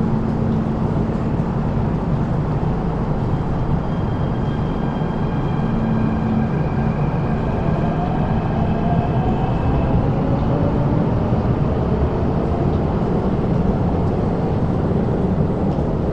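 MTR metro train pulling out of the platform. The cars rumble steadily, and a few seconds in a motor whine starts and rises in pitch as the train picks up speed, then fades as the train leaves.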